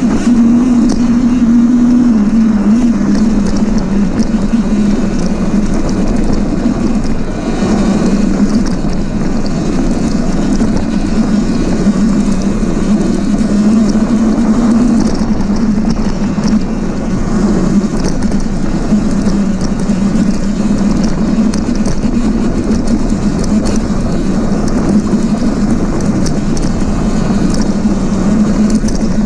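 Sur-Ron Ultra Bee electric dirt bike riding rough single track: a steady drivetrain hum that wavers up and down with speed under a constant rushing noise, with frequent small knocks and rattles.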